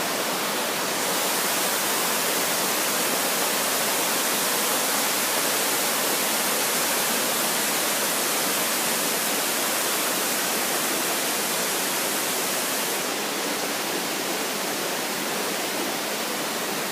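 A brook swollen with heavy rain, roaring with a steady rush of water. It grows a little brighter and louder about a second in and eases back near the end.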